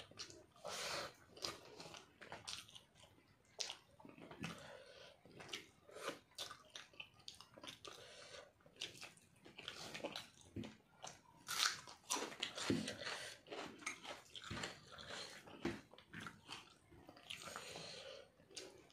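A person chewing a mouthful of rice and chicken eaten by hand, with many short, irregular clicks and smacks of the mouth.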